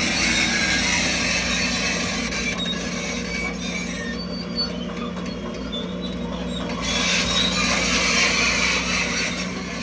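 Crawler bulldozer working: its diesel engine runs steadily under the high squeal and clatter of its steel tracks. The squealing eases for a few seconds in the middle, then returns.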